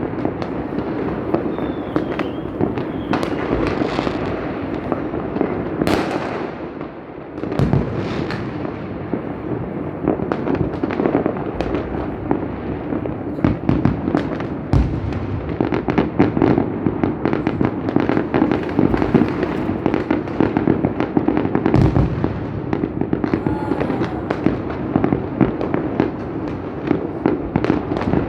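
A continuous barrage of fireworks, countless cracks and bangs overlapping one another over a steady rumble, with a brief lull just before 8 seconds in and then denser, sharper crackling for the rest.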